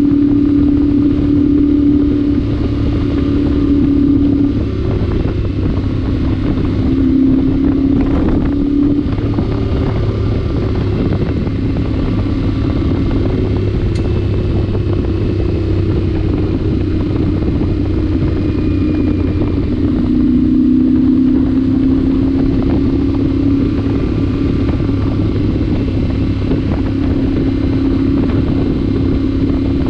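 Yamaha Ténéré 700's parallel-twin engine running on the move at a steady cruise, through its exhaust with the spark arrestor removed, over a steady rush of wind. The engine note dips about four seconds in and again around twenty seconds in, then climbs back.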